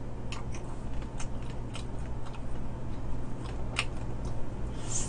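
Close-up eating sounds of someone gnawing meat off a sauced fried chicken drumstick: scattered wet clicks and smacks of mouth and teeth on meat and bone, one sharper click about four seconds in, over a steady low hum.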